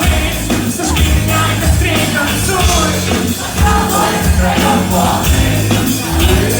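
Live band playing the instrumental opening of a song through a club PA, loud, with heavy pulsing bass and a steady beat.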